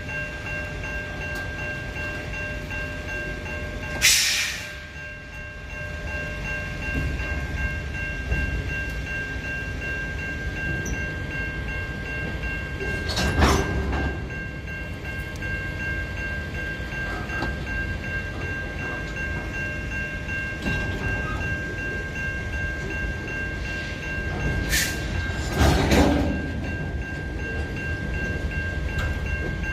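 A freight train rolling slowly in reverse: a steady low rumble with a few thin, steady high-pitched tones ringing over it. Loud short bangs come about four seconds in, near the middle, and twice close together near the end.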